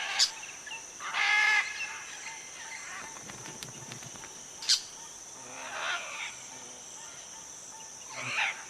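Crimson-fronted parakeets giving a few separate harsh, scratchy calls: one about a second in, a short sharp squawk near the middle, and rasping calls a little later and near the end. A steady high insect drone runs underneath.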